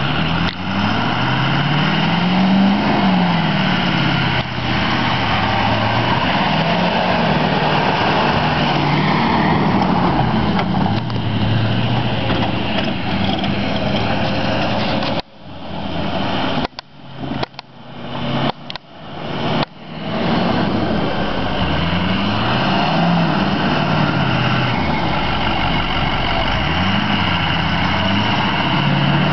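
Truck engine revving up and falling back again and again while driving off-road, over a constant rush of noise. About halfway through, the sound drops out sharply several times for a few seconds before the revving resumes.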